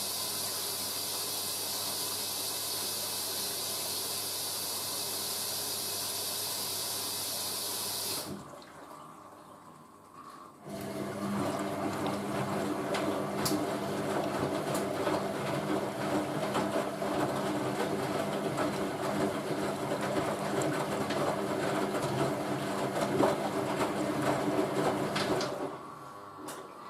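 Hoover A3060 washing machine filling for a rinse: water hisses steadily into the machine for about eight seconds, then cuts off. A couple of seconds later the drum starts turning, with a steady motor hum and water sloshing, and stops shortly before the end.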